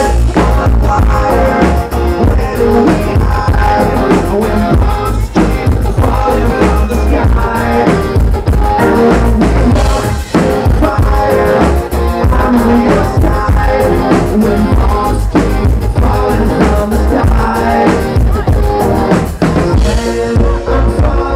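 Rock band playing live, with drum kit, bass and guitar and some singing; the full band with heavy bass comes in right at the start.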